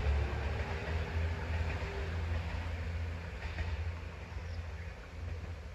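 A KiHa 200 series diesel railcar moving away after passing the crossing. Its low rumble fades steadily.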